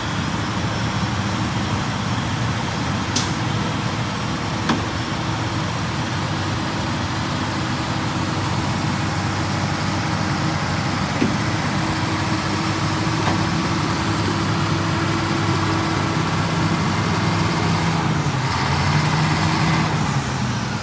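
Heavy diesel engines running under load while a stuck truck is pulled out of the mud on a chain, with a couple of sharp clicks early on. Near the end the engine note dips and then climbs back.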